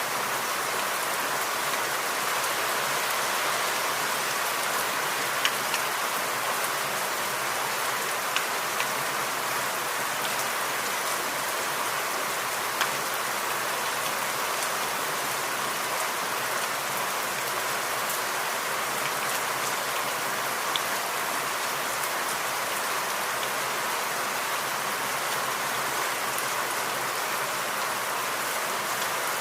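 Steady rain falling, an even hiss of many drops, with a few louder single drop strikes standing out now and then.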